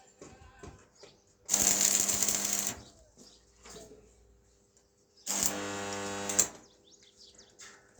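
Small electric power tool motor run in two short bursts of about a second each, with light clicks and knocks from handling between them.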